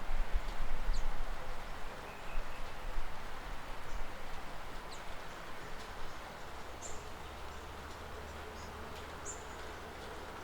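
Steady rain falling, an even hiss, with a few short high bird chirps over it. Low rumbling gusts in the first few seconds fade out, and a faint low hum comes in about two-thirds of the way through.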